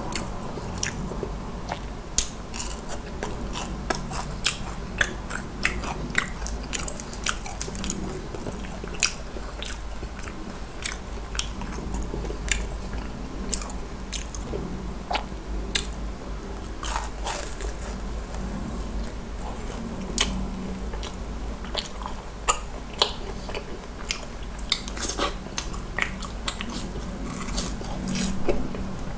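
Close-miked chewing and crunching of crisp fried food, with many sharp crunches at irregular moments over a low steady hum.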